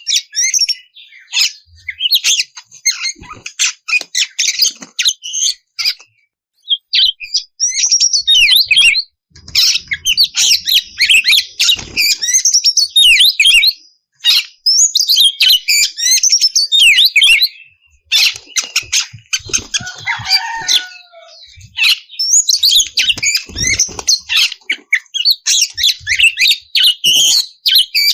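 Oriental magpie-robin (kacer) singing loudly and continuously: a fast, varied stream of high whistles and chattering, clicking notes, broken by a few short pauses. About twenty seconds in, it drops into a lower, falling phrase.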